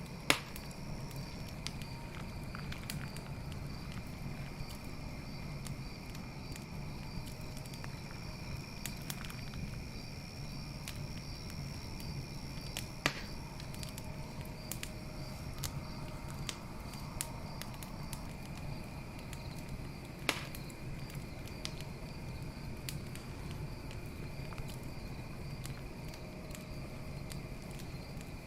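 Campfire crackling steadily, with small snaps throughout and three loud pops, one right at the start and two more about 13 and 20 seconds in. Crickets chirp steadily at night in the background, a high pulsing chirp.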